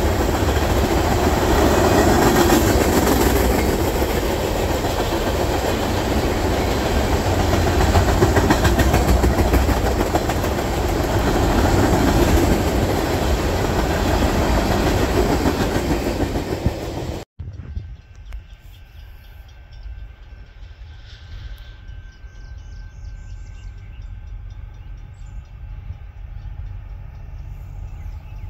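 Tank cars of an ethanol freight train rolling past at close range, a loud, steady rumble of wheels on the rails. About 17 seconds in the sound cuts off abruptly, leaving a quiet background with a few faint bird chirps.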